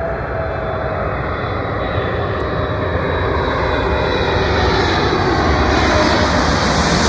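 Boeing 777-300ER's twin GE90 turbofan engines passing close by, a jet roar that grows steadily louder.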